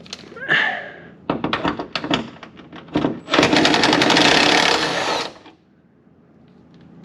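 Cordless Milwaukee impact wrench hammering on a hood bolt in two bursts: a short one, then a longer one of about two seconds that stops suddenly.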